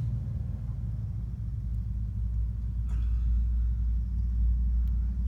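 Vehicle engine idling: a low, steady rumble that grows slightly louder about halfway through, with a faint click near the middle.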